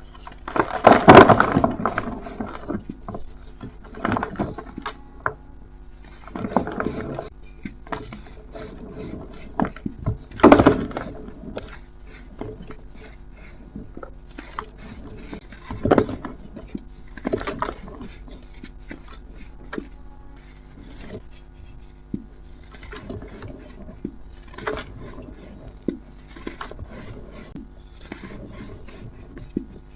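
A dry, brittle material being crumbled and crushed, giving irregular bursts of crunching and crackling. The loudest crunches come about a second in, at about ten and a half seconds and at about sixteen seconds.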